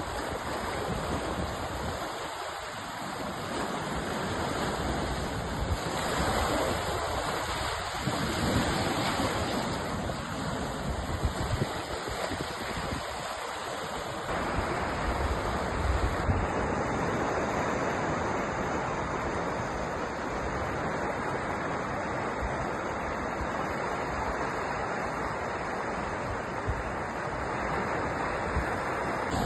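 Sea surf: a steady wash of ocean waves that swells and eases slowly.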